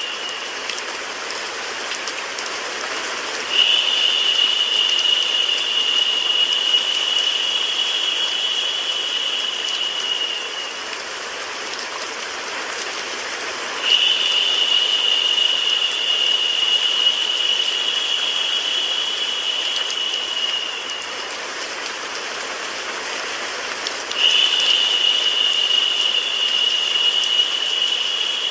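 Steady rain-and-white-noise hiss for sleep. A higher, thin steady tone rises above it about every ten seconds and holds for about seven seconds each time.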